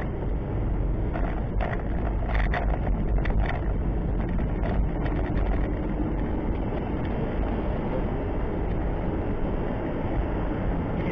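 Car on the move, recorded by a dashcam microphone: steady low engine and road rumble, with a few light clicks and rattles in the first few seconds.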